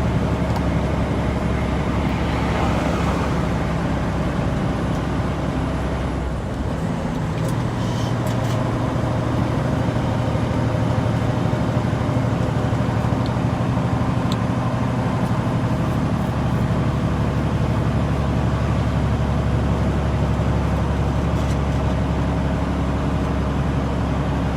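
Semi-truck's diesel engine running steadily at highway speed with road noise, heard inside the cab. The engine note dips and shifts pitch briefly about six to seven seconds in, then holds steady again.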